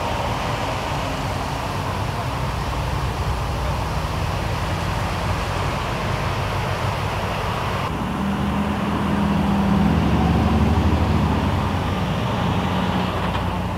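Steady vehicle engine and roadway noise. About eight seconds in, a deeper engine sound swells, louder for a few seconds, then eases back.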